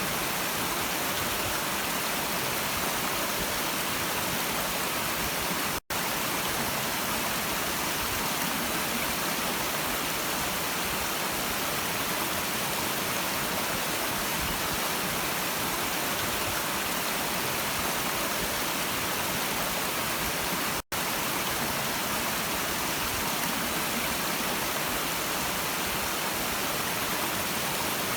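Steady rushing of a stream, with the sound cutting out for a split second twice.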